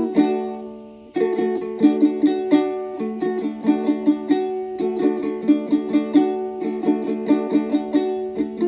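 Music played on a plucked string instrument: a quick run of picked notes. About a second in, one note dies away before the picking starts again.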